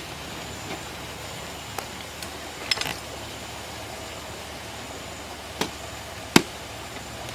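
A handful of separate sharp knocks, the loudest about six seconds in, over a steady low hiss.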